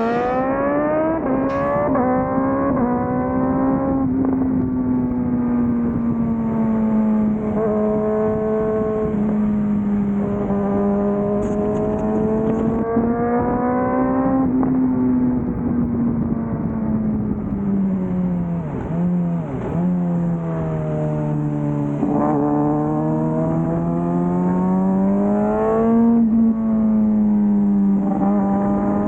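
Suzuki GSX-R600 inline-four engine and exhaust running at highway speed. The note climbs at the start, holds at cruising revs, sinks to a low dip about twenty seconds in as the throttle eases off, then climbs again and drops at a gear change near the end.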